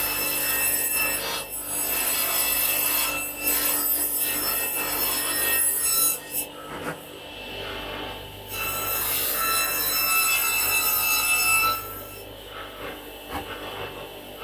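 Hand tool working elm boards: long rasping strokes of steel on wood, in runs that pause about six seconds in and grow quieter from about twelve seconds.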